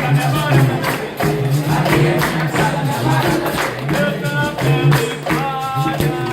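Capoeira roda music: a steady rhythm of pandeiro and hand percussion under singing voices.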